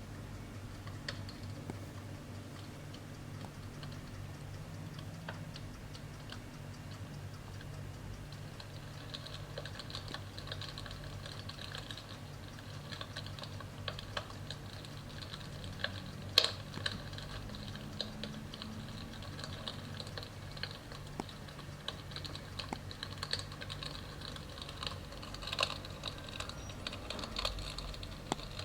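Electric fireplace's simulated wood-fire sound: irregular small crackles and ticks over a low steady hum, thickening after the first third, with a sharp pop about halfway through and another near the end.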